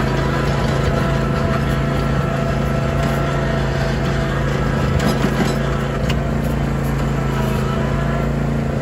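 John Deere Z320R zero-turn mower engine running at a steady speed, an even hum.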